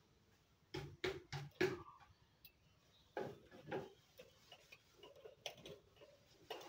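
Budgies making short, irregular clicks and taps: four in quick succession about a second in, then a few scattered ones.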